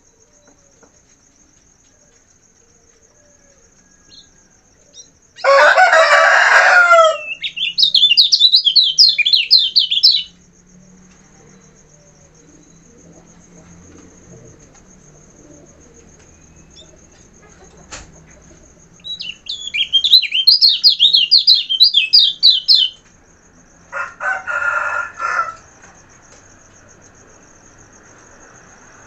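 Kecial kuning songbird singing two loud bursts of rapid, high, chattering warbles, each a few seconds long. Two lower, harsher calls come just before the first burst and just after the second. A thin steady high tone runs underneath.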